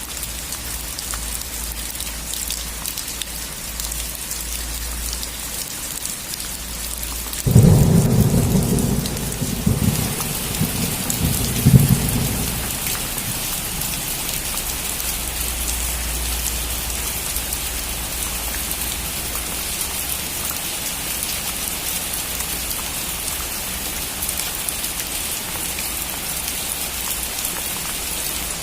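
Steady rain falling on a roof. About a quarter of the way in, a sudden clap of thunder rumbles low, swells again a few seconds later and dies away, and the rain grows heavier after it.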